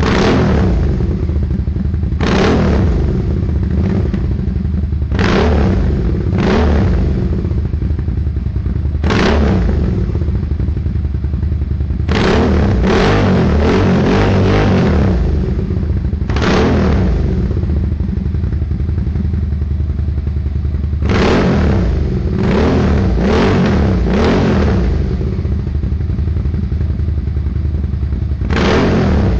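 Suzuki SV650's 90-degree V-twin running through a Hashiru aftermarket exhaust, idling steadily and blipped on the throttle about a dozen times, sometimes singly and sometimes in quick runs of three or four, each rev falling back to idle.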